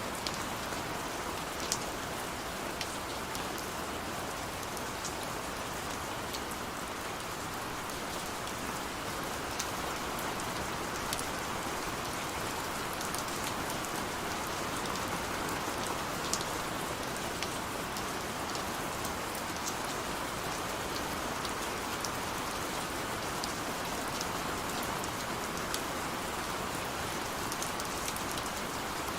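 Steady rain falling, an even hiss with scattered sharper taps of single drops striking a surface.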